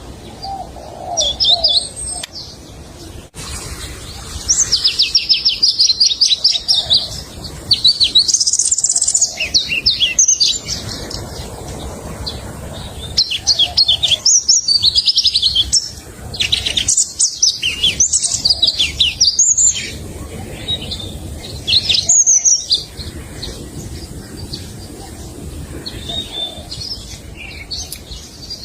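Pallas's leaf warbler singing: repeated bouts of fast, high trills, each lasting a second or a few seconds, with short pauses between them.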